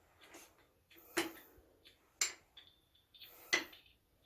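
A few sharp clicks and taps of hard objects knocking on a hard surface, the three loudest about a second apart, each with a short bright ring.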